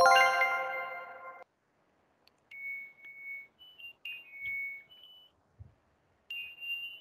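A chime rings out and fades over about a second and a half. Then a washing machine's end-of-cycle signal plays a short tune of high electronic beeps, signalling that the wash is finished.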